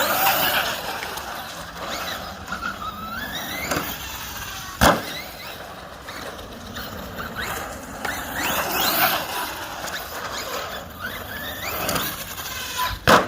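CEN Racing REEPER 1/7-scale RC monster truck driven hard, its electric motor whining up and down in pitch as the throttle is worked. A sharp landing thud comes about five seconds in and another near the end.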